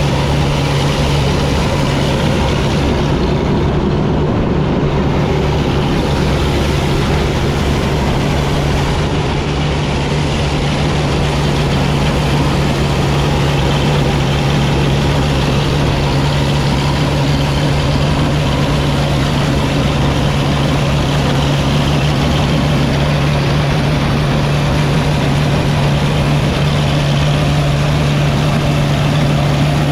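1955 Field Marshall Series 3 tractor's 5.1-litre single-cylinder two-stroke diesel running steadily, a continuous low drone under even machinery noise, as it works with a Marshall 626 trailed combine.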